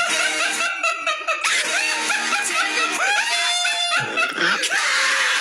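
Several voices laughing and squealing at once, loud and overlapping throughout.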